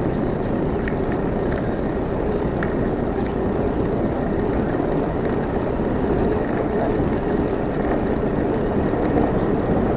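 Steady street traffic noise with a low rumble, heard from a moving bicycle.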